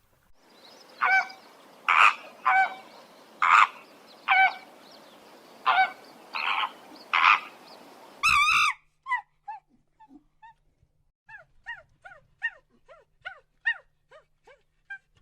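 Animal calls: about eight loud honking calls over a steady hiss, then, after an abrupt change about eight seconds in, a fast run of short downward-sliding chirps.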